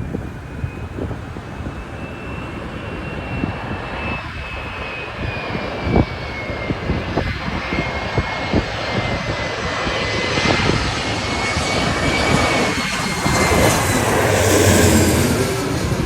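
Jet airliner flying low overhead, its engines' roar building steadily to a peak near the end, with a high engine whine that slowly falls in pitch.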